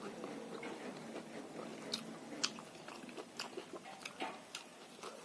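Close-miked chewing and biting of roasted pork with green leaf salad and rice: irregular wet mouth clicks and small crunches, several sharp ones in the second half.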